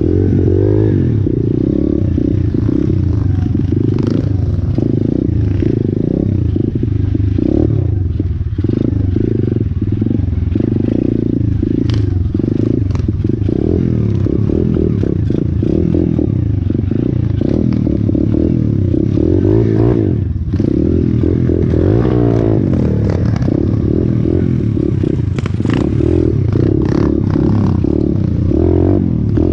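125cc single-cylinder four-stroke pit bike engine running while riding, its pitch rising and falling with the throttle. Clattering knocks come and go throughout.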